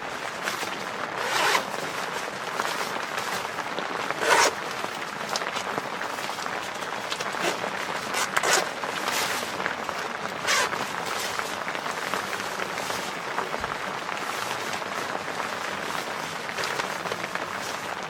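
Steady rain hiss on a camping tent, broken by a few short, sharp swishes of fabric.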